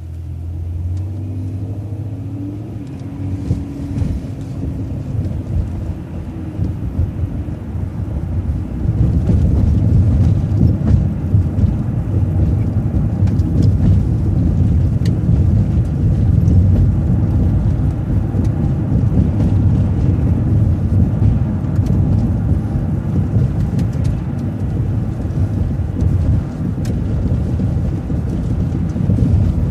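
Transit bus engine and road rumble heard from inside the bus while driving: a low engine drone with steady engine tones at first, growing into a louder, steady rumble from about nine seconds in as the bus gathers speed.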